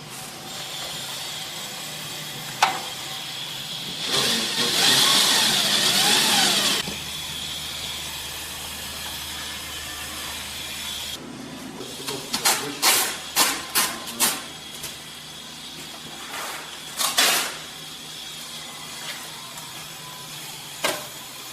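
A motor-driven tool runs for about three seconds, its pitch wavering, then a quick run of sharp knocks and clicks, with two more a few seconds later, over a steady background hum.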